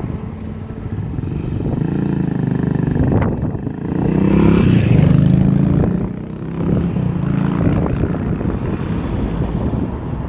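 Road vehicles passing over the level crossing, engines running and accelerating, loudest about four to six seconds in.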